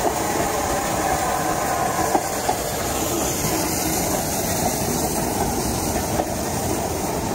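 Train of coaches behind Bulleid Pacific steam locomotive 34046 rolling past at close range: a steady rumble of wheels on track, with a few sharp clicks as the wheels cross rail joints.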